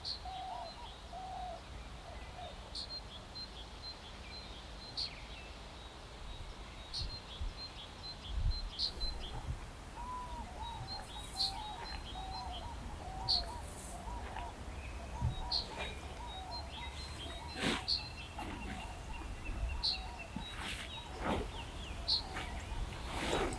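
Birds calling, one giving a short high chirp about every two seconds while others warble lower down, over a steady low rumble.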